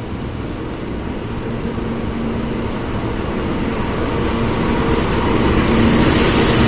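A train running through the station, its rumble and a steady low hum growing louder, with a high hiss building near the end.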